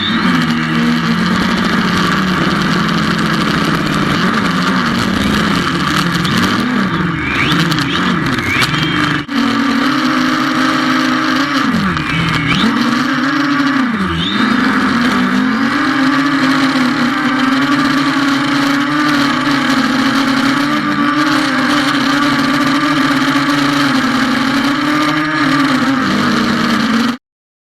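Xiaomi FIMI A3 quadcopter's propellers and motors humming, the pitch swinging up and down as the motors speed up and slow down, with two sharp dips about twelve and fourteen seconds in. The sound cuts off abruptly near the end.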